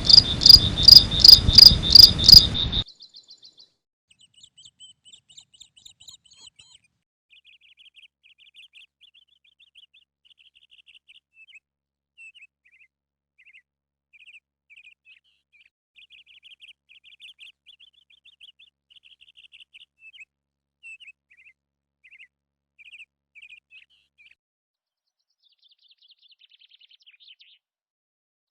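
Night crickets chirping. In the first three seconds a loud, high chirp pulses about three times a second over a rushing noise, then cuts off suddenly. Faint, intermittent high trills follow.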